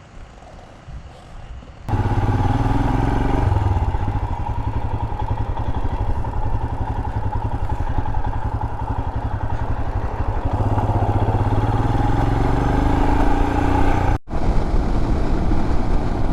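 Royal Enfield Himalayan's single-cylinder engine running under way, loud and steady after a quieter first two seconds, its pitch stepping a couple of times and rising a little before a brief dropout near the end.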